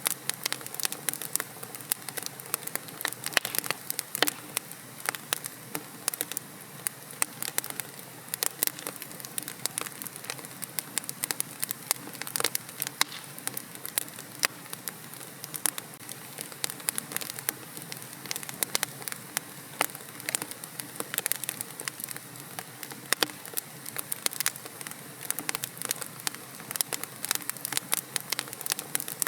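Fire crackling in a fireplace: a dense run of sharp pops and snaps, several a second, over a soft steady hiss.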